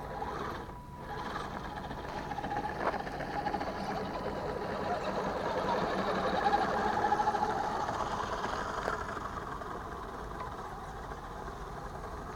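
Electric motor and gears of a radio-controlled scale crawler truck whining as it drives. The sound grows louder toward the middle and then eases off.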